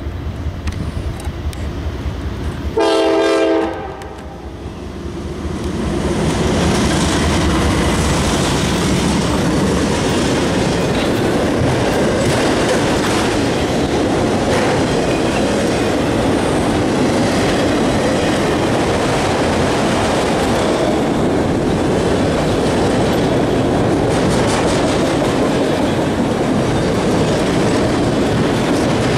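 CSX diesel freight locomotives approach and give one short horn blast, about a second long, roughly three seconds in. A long train of enclosed autorack cars then rolls past close by, with the steady loud noise of steel wheels running on the rails.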